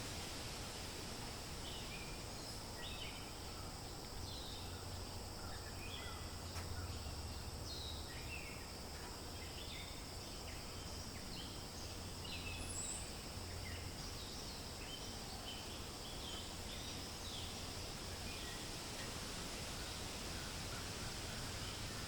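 Forest ambience: a steady wash of wind noise with many short bird chirps scattered throughout, with a low hum underneath.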